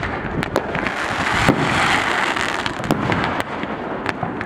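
Fireworks going off in a continuous display: a dense crackle of bursting shells with sharp bangs scattered through it.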